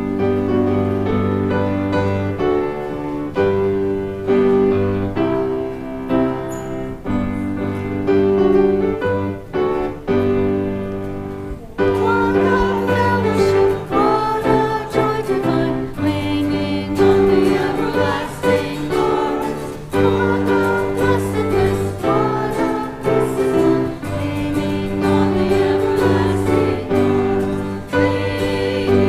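Congregational hymn singing with instrumental accompaniment. The accompaniment plays the introduction alone at first, and the voices come in about twelve seconds in.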